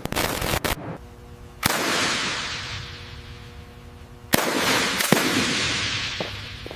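Two loud sudden bangs about two and a half seconds apart, each trailing off into a long fading rush of noise, with a steady low hum between them.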